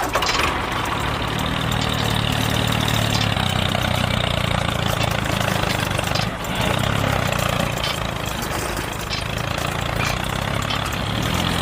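Small engine of a homemade mini tractor running steadily at a low, even speed, with a brief dip about six seconds in.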